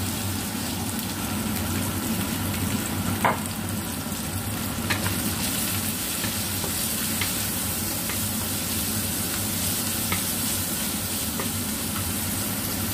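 Sliced onion, shallots, garlic and chili sizzling in oil in a stainless steel wok. A wooden spatula stirs them, knocking against the pan now and then, loudest about three seconds in.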